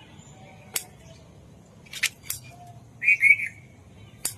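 A small bird chirping, with a short double chirp about three seconds in, and four sharp clicks spread through.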